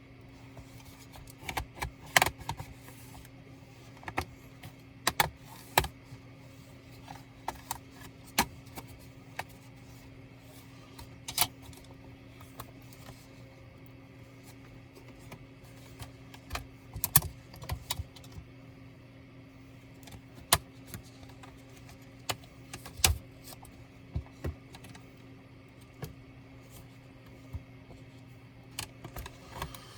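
Irregular clicks and light taps of small tools and laptop parts being handled during disassembly of an ASUS K3605Z laptop, over a steady low hum.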